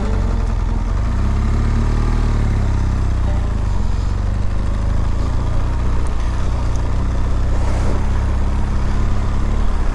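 2018 BMW R1200GS's boxer-twin engine running at a steady idle.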